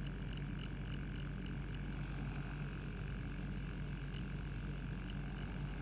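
Permanent-makeup tattoo machine running with a steady low buzz, with light, irregular crackling clicks as the needle works into the lips: the even cracking sound taken as the sign of correct lip tattooing.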